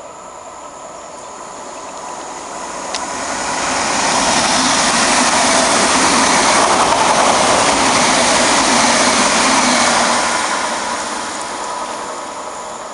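VR Sm3 Pendolino electric tilting train running through the station without stopping: a rush of wheels and air that builds over a few seconds, holds loud for about six seconds as the cars pass, then fades as the train goes away.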